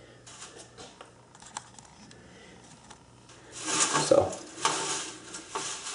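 Metal tools and parts being handled at a lathe: light clicks and taps, then, about three and a half seconds in, a louder stretch of metal clattering and scraping.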